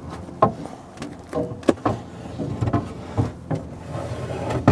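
Sharp knocks and clatter, about half a dozen, from fence poles being handled and laid down, with rustling and scraping in between.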